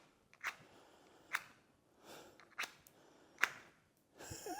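Old matches being struck against the box: four short, sharp strikes about a second apart, then a rushing hiss near the end.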